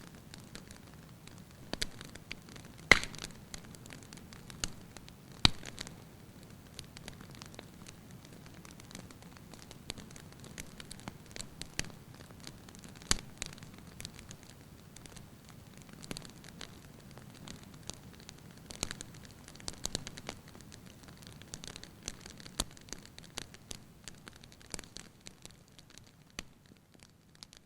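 Wood fire burning in a fireplace: irregular crackles and pops over a low steady hiss, the two loudest pops about three and five and a half seconds in, fading slightly at the very end.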